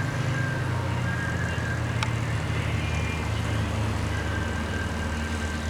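A motor vehicle's engine running steadily at low revs, its pitch shifting slightly about halfway through, with one sharp click about two seconds in.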